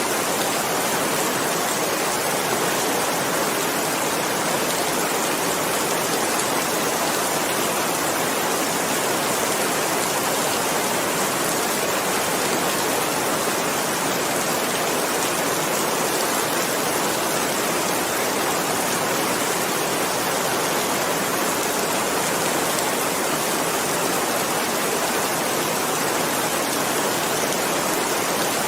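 Steady heavy rain, a dense, even hiss of falling drops with no single drops standing out and no change in strength.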